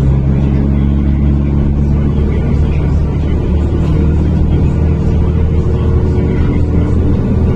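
NefAZ-5299 city bus engine and drivetrain running under way, heard from inside the passenger cabin as a steady low drone. Its note shifts slightly about two seconds in.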